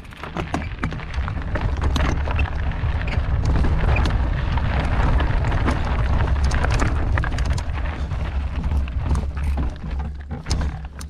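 Wind buffeting the microphone while a mountain bike rides over a rocky trail, with frequent clattering knocks and rattles from the bike on the rocks. It grows louder over the first couple of seconds, then stays loud.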